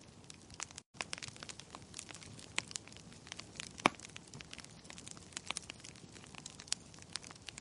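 Wood fire crackling in a fireplace: irregular sharp pops and snaps over a soft steady hiss, the loudest pop about four seconds in. The sound cuts out for an instant just under a second in.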